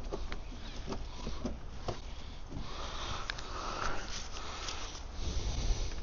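Steady rain hiss with scattered light clicks and taps of hand tools and car parts, and a breathy swell about four seconds in.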